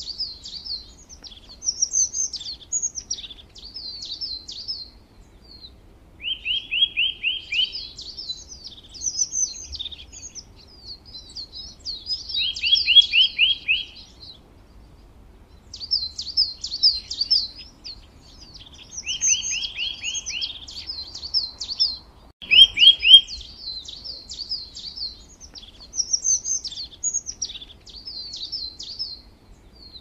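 A songbird singing one phrase over and over: a quick run of about six even notes, then a tumble of higher chirps. The phrase comes back every few seconds, with short pauses between songs.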